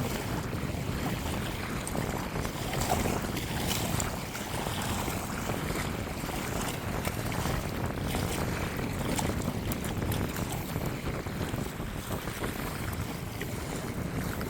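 Wind buffeting the microphone: a steady low rumble that holds at an even level throughout.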